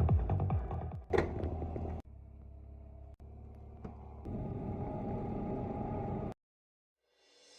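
Jet ski engine running steadily, stepping up suddenly to a louder level about four seconds in, then cut off abruptly.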